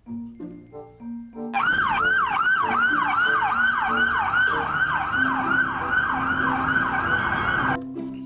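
Electronic police siren in a fast yelp: each call jumps up and slides down in pitch, about three a second, over light background music. It starts about a second and a half in and cuts off near the end.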